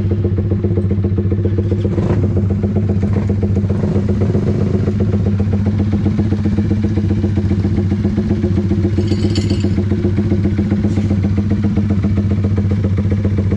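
Drag-racing underbone motorcycle engine idling loudly and steadily, held at one speed without revving.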